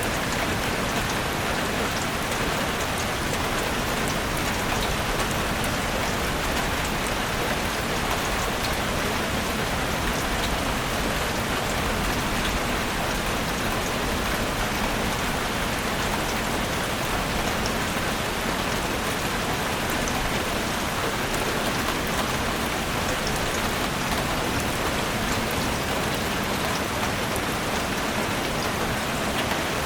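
Steady rain falling in a forest: an even, unbroken hiss with faint scattered drop ticks.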